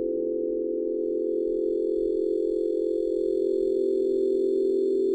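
A steady meditation drone of several held, unwavering tones, with faint high tones joining about a second in.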